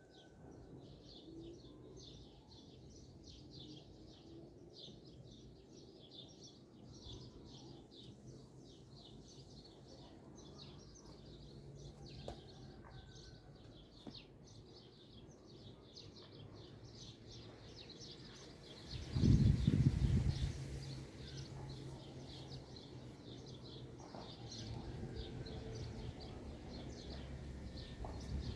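Small birds chirping steadily in quick, repeated high notes over a faint low background hum. About two-thirds of the way through, a brief loud low rumble rises and fades over a second or two.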